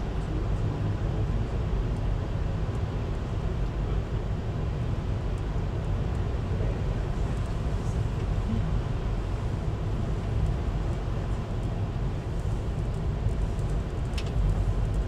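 Steady low rumble of a VIA Rail passenger train rolling along the track, heard from inside the car, with a few faint clicks near the end.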